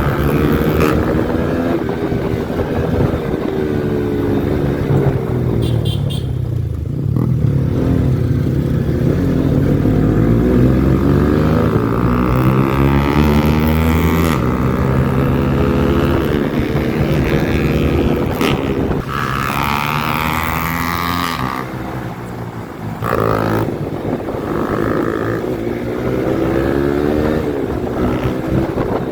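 Yamaha R15 V4's single-cylinder engine running through a modified exhaust while the bike is ridden, its note climbing and dropping again and again with the throttle.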